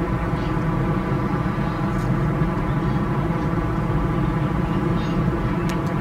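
Long train crossing a steel truss bridge: a steady rumble with a droning hum that holds an even pitch.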